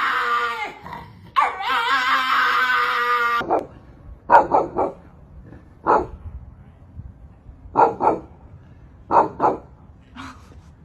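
A dog giving two long wavering cries, then barking in short sharp yaps, one burst of about four quick yaps followed by single and paired yaps.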